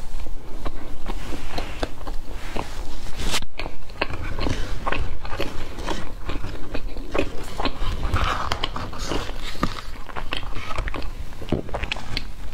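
Close-miked chewing of a donut: wet, irregular mouth clicks and soft crackles as the mouthful is worked.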